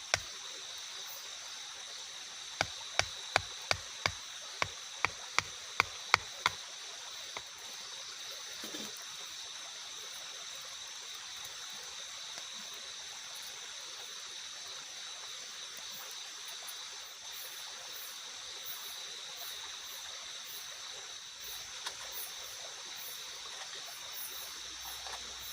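Steady rush of water, a stream or light rain, under a constant high insect drone. A few seconds in comes a quick run of about a dozen sharp knocks, roughly three a second.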